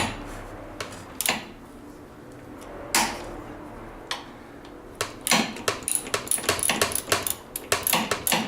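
Metal hand tools and parts clinking while a snowmobile's front suspension is taken apart: a few separate sharp knocks, then from about five seconds in a quick, irregular run of clicks and rattles.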